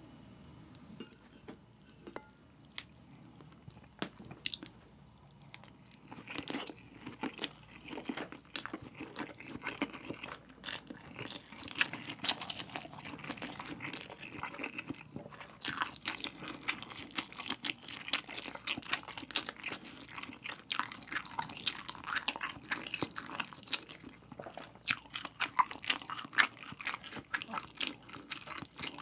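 Close-miked chewing and wet mouth sounds of eating a soft egg-and-rice dish with melted cheese and tomato sauce. For the first few seconds there are only a few faint clicks of a knife and fork cutting a piece; after that the chewing is dense and crackly.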